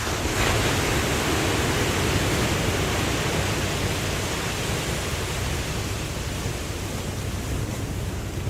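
Ocean surf: a wave breaks with a sudden surge of hissing noise right at the start, and its wash then slowly fades.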